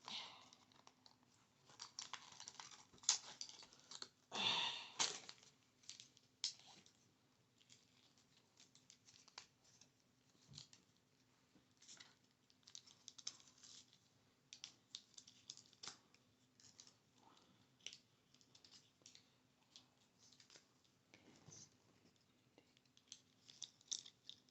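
Light, irregular tapping and clicking on small hard items, with a louder rustle or crinkle about four seconds in.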